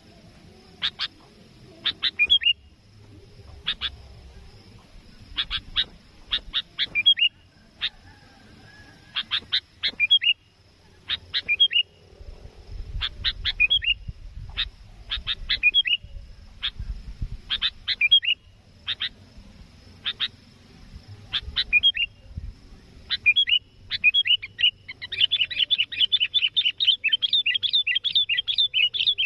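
Sooty-headed bulbul (kutilang) calling: short, sharp, repeated call notes in small groups every second or two, breaking into a fast, continuous run of chattering notes in the last few seconds.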